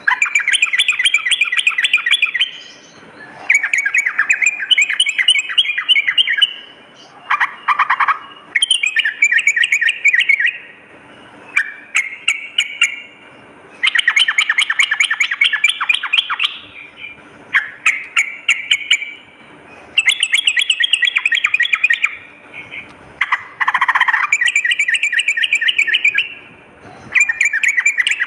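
Yellow-vented bulbul (trucukan) singing: rapid, bubbly chattering phrases of about two seconds each, repeated over and over with short pauses between them.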